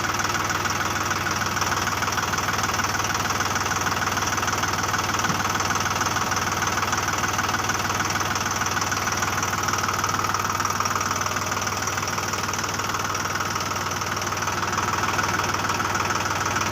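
A motor running steadily with a fast, even rattle and a constant low hum.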